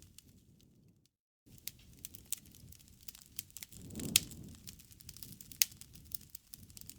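Wood fire crackling, with irregular snaps and sharp pops over a low rumble of flame. The sound drops out completely for about half a second about a second in, then the crackling resumes; the loudest pops come a little after the middle.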